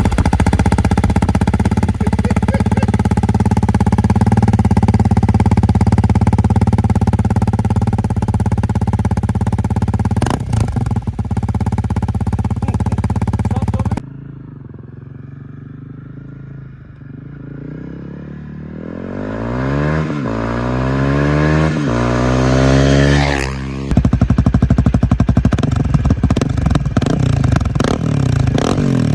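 Honda CRF300L's single-cylinder four-stroke engine through an aftermarket Dominator mid-pipe and slip-on exhaust, in a string of clips: first running steadily, then after a sudden cut a quieter passage where the engine pitch rises and falls as it revs, then after another cut running loud and steady again.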